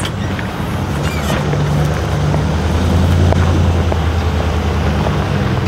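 Engine running steadily with a low hum that grows louder about two seconds in.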